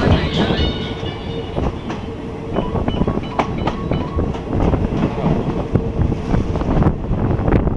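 Thai passenger train No. 283 running along the track, a steady rumble with the clickety-clack of wheels over rail joints and a thin high wheel squeal in the first second or so.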